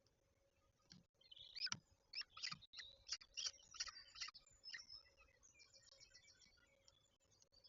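Faint bird calls: a quick run of short, sharp chirps for a few seconds, then a brief high trill, over a faint steady hum.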